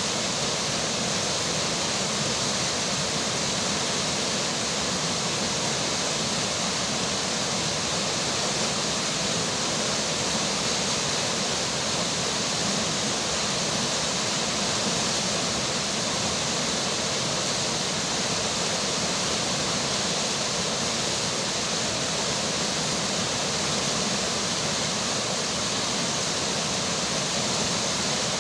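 Steady rushing of flowing river water mixed with falling rain, an even hiss that holds without change.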